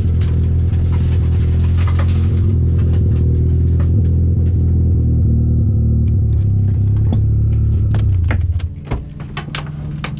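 Turbocharged Honda D16 single-cam four-cylinder in a Civic idling steadily, a low hum heard from inside the cabin. Near the end the engine sound drops in level and a run of sharp clicks and taps follows.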